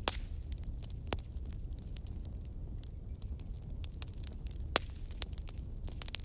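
Wood campfire burning: frequent sharp crackles and pops over a low, steady rumble of the flames. A louder pop comes right at the start and another just before five seconds in.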